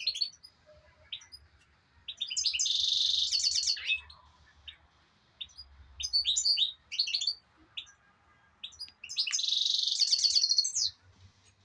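A small songbird singing: two loud bursts of rapid, high-pitched trilled notes, each about a second and a half long, one about two seconds in and one near the end, with scattered short chirps in between.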